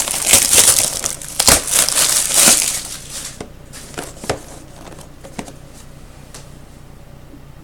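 Packaging being torn and crumpled as a sealed trading-card box is opened, dense crinkling for about the first three seconds, then a few scattered rustles and clicks.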